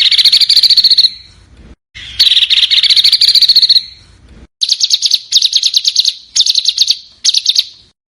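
A small songbird singing rapid, high-pitched trills: two long trills of nearly two seconds each, then five short trill bursts in quick succession.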